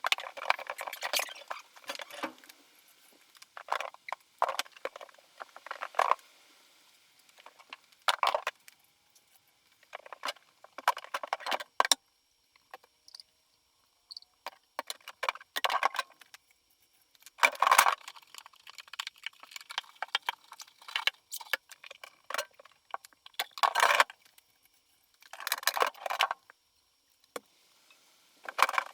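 Irregular bursts of handling noise, each lasting a second or two, with short quiet gaps between them.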